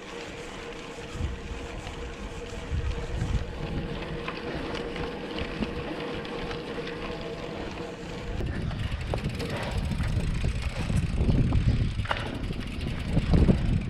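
Wind rushing over the microphone while cycling along a highway, with road traffic around. A steady hum stops about eight seconds in, after which the wind rumble grows louder.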